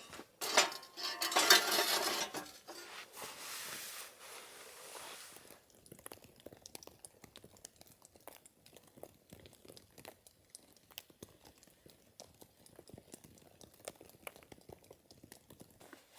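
Metal camp gear clinking and scraping as it is handled, loudest in the first few seconds, then a long run of faint small clicks.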